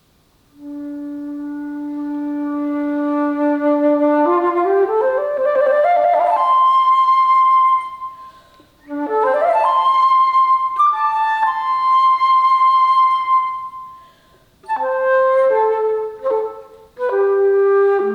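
Alto flute playing solo. A long low note swells in loudness, and a quick rising run climbs to a held high note. After a short breath a second rising run reaches another held high note, and short falling phrases follow near the end.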